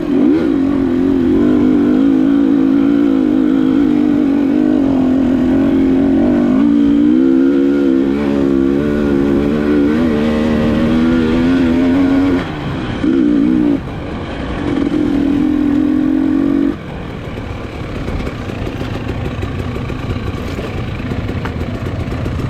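Enduro motorcycle engine running hard at high revs, its pitch wavering up and down, then breaking off suddenly a little past halfway. After two short returns it gives way to a quieter, rougher rumble.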